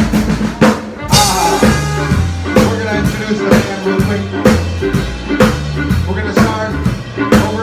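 Live swing band playing an instrumental: a drum kit keeps a steady beat with strong accents, under a moving bass line and horn parts.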